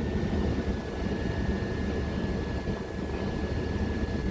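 Electric multiple-unit train running at the station: a steady low rumble with a constant high whine over it.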